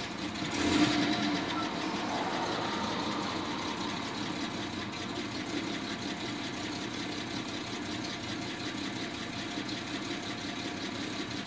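Jaguar XJ6 straight-six engine idling steadily while warming up, heard from inside the cabin, with the AED cold-start enrichment device working its way to closing.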